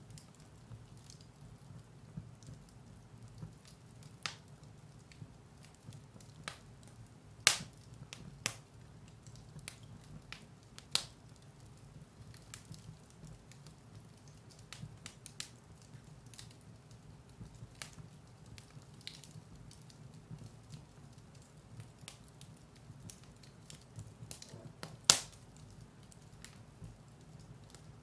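Firewood burning in a fireplace, crackling with scattered small pops over a low steady rumble. Two much louder snaps come about a third of the way in and again near the end.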